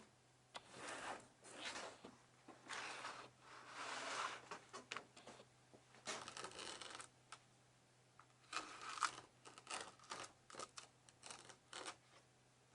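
Intermittent hand-work noises: irregular scrapes and rustles of a few tenths of a second to about a second each, with short clicks in between.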